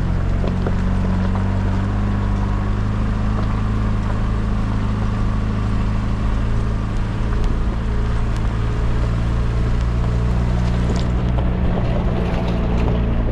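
Off-road truck's engine running at a steady low drone while driving along a wet lane, with a steady hiss of rain and tyres over it.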